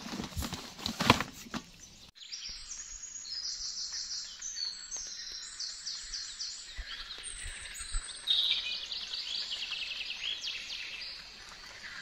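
Songbirds singing: a run of quick, high trilled phrases, one after another, over an open-air background, after a few knocks and clatter in the first two seconds.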